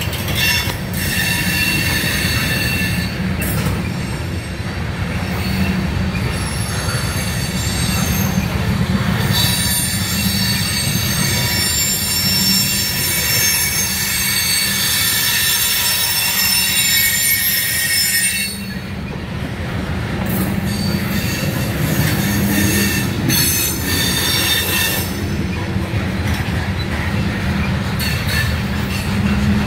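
Freight train of covered hopper cars rolling past: a steady low rumble of steel wheels on rail with a high-pitched wheel squeal over most of it, which drops away briefly about two-thirds of the way through.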